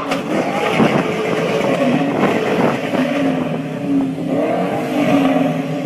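Car engine revving, its pitch rising and falling several times, with a few sharp clicks in the first couple of seconds.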